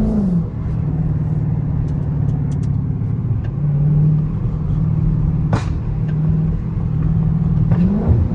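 Dodge Charger 392 Scat Pack's 6.4-litre HEMI V8 running steadily, its pitch dropping just after the start and climbing again near the end. A single sharp click cuts through about five and a half seconds in.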